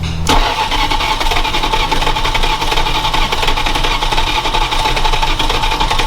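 Starter motor cranking the truck's carbureted engine steadily, with a whining starter and a fast, even chug, starting about a third of a second in. The engine turns over but does not fire; the crew suspect a lack of spark or a vacuum leak.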